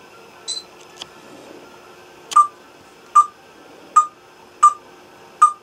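Pet parrot calling: a brief high chirp, then five short beep-like clicks repeated evenly, about one every 0.8 seconds.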